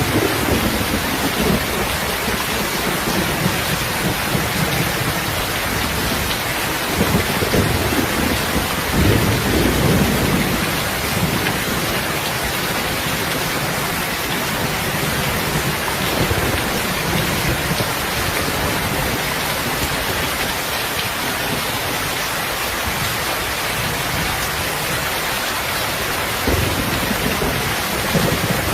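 Steady heavy rain falling, with low rolls of thunder swelling up near the start, around the middle of the first third, and again near the end.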